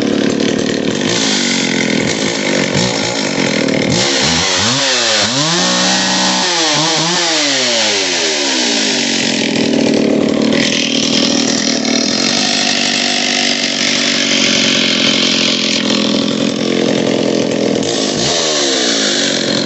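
Vintage McCulloch PRO MAC 605 chainsaw, a 3.4 cubic inch two-stroke, running smoothly. Its engine speed drops and climbs again several times around a quarter to halfway in, and once more near the end.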